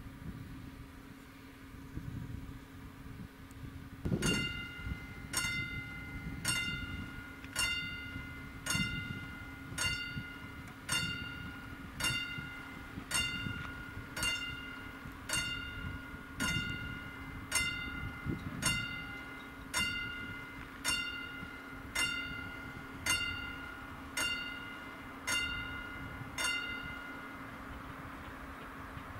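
Level crossing warning bell striking about once a second, each stroke ringing briefly, starting about four seconds in and stopping near the end: the crossing is warning of an approaching train. A steady low hum and outdoor rumble run underneath.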